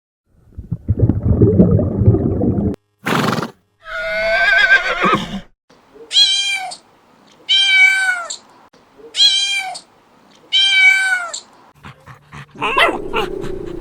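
A run of animal calls. It starts with a low rough call, then comes a short sharp burst and a wavering call, followed by four evenly spaced high calls of under a second each that fall in pitch at the end.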